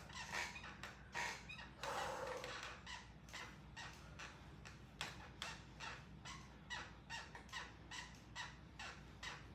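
Stationary exercise bike squeaking in a steady rhythm with the pedalling, about three squeaks a second, over a low steady hum; a longer, louder sound comes about two seconds in.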